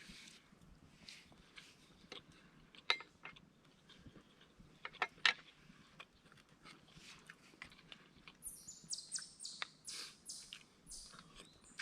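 A small songbird singing a rapid run of high, repeated chirps about two thirds of the way through, over faint scattered clicks and knocks.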